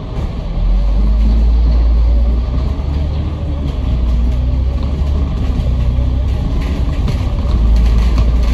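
A Kowloon Motor Bus engine heard from inside the bus as it drives. A deep rumble grows louder about half a second in and holds, with a wavering engine and gearbox whine on top.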